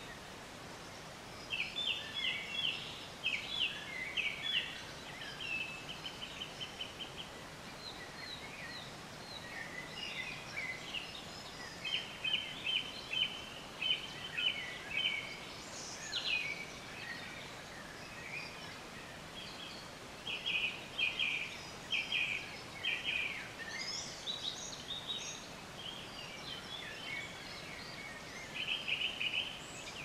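Birds singing: phrases of rapid repeated chirps and trills lasting a second or two, separated by pauses, over a steady background hiss.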